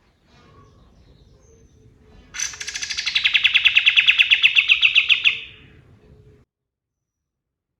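A kapas tembak songbird (katem) sings a rapid run of sharp, rattling notes, about seven a second, growing louder for about three seconds before trailing off.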